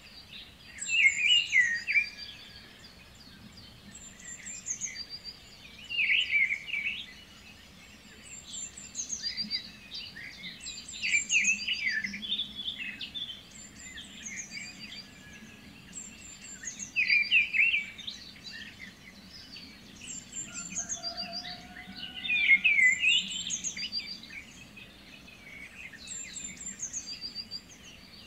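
Birds calling: a loud warbling phrase about every five to six seconds, with short high chirps in between and a faint low hum underneath.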